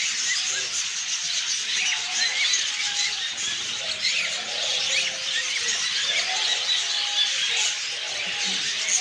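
Many small caged pet birds chirping and squeaking together in a dense, continuous high chatter, with no single call standing out.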